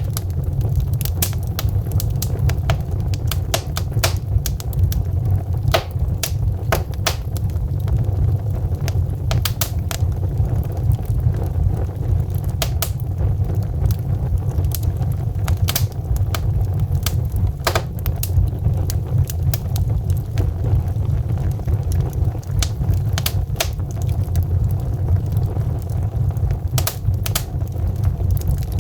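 Wood fire burning in a fireplace: logs crackling with many sharp, irregular pops over a steady low rumble of the flames.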